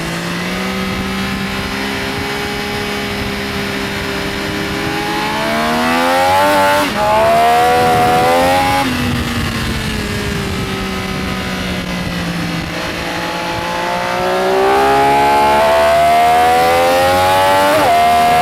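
Benelli Tornado Tre 900's three-cylinder engine at racing speed: it revs up hard through the gears with a quick upshift about seven seconds in, drops back around nine seconds in, then pulls up through the revs again with another shift near the end.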